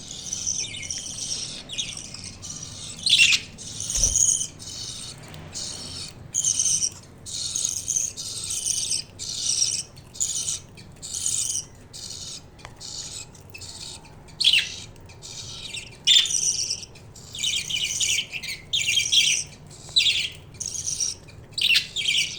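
Budgies chirping and chattering in a steady string of short, high-pitched calls, with a few louder calls that sweep downward in pitch. A brief low knock comes about four seconds in.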